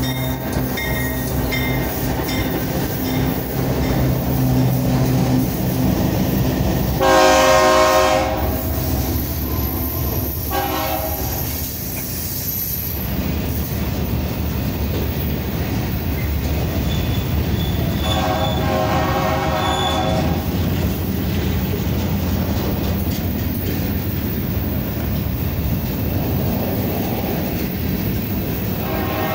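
Two GE diesel-electric freight locomotives run past at close range with a steady low engine drone, then a long slow freight of tank cars and covered hoppers rolls by with steady wheel-on-rail rumble. A locomotive horn sounds three times: a loud blast about seven seconds in, a short one a few seconds later, and a longer blast about two-thirds of the way through.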